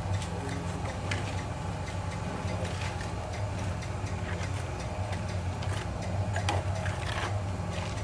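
Scattered metallic clicks and knocks from tools working on an air conditioner unit during its removal, over a steady low hum.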